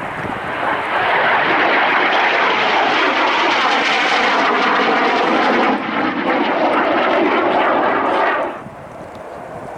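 Jet airliner engines, loud and steady, building over the first second and cutting off abruptly about eight and a half seconds in.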